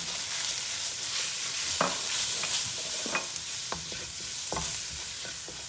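Onion and pepper base frying in a metal pan with freshly added ground spices, sizzling steadily while a wooden spoon stirs it, the spoon scraping and knocking against the pan several times.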